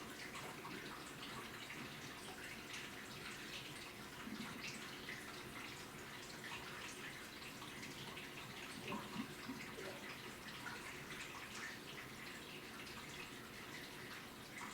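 Water splashing and dripping inside an AQUA washing machine during its cycle: an even patter of small irregular splashes.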